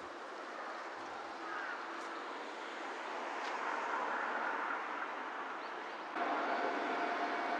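Kintetsu Shima Line electric train running near the station, its running noise slowly growing louder. About six seconds in it steps up suddenly, and a steady whine joins it.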